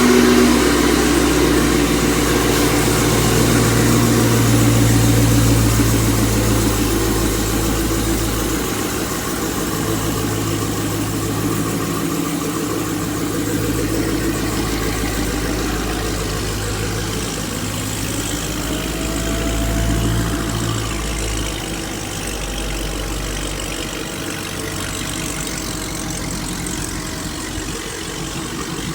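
Dodge Hellcat Redeye's supercharged 6.2-litre HEMI V8, tuned to about 1000 hp on E85, idling with a deep rumble. The low rumble shifts in level several times and the sound slowly grows quieter.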